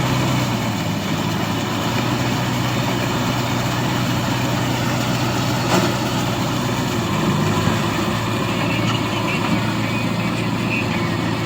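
A tractor's diesel engine running steadily at a constant low speed, with one brief knock about six seconds in.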